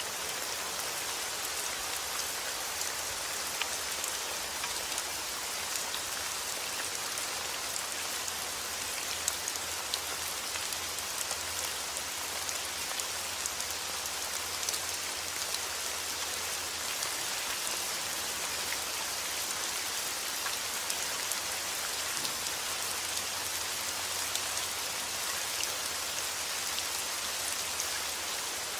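Steady heavy rain falling outdoors, a dense even hiss with scattered individual drop ticks.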